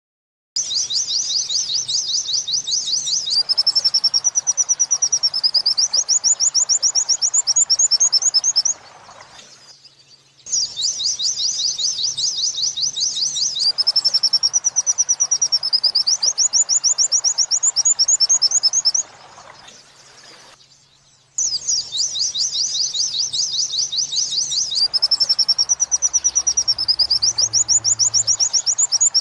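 White-eye (pleci) song in the 'wit-wit sambung kunti' style: rapid high chattering notes and whistles in three near-identical bouts of about eight seconds each, with short pauses between. It is a looped mastering track used to teach the song to other caged birds.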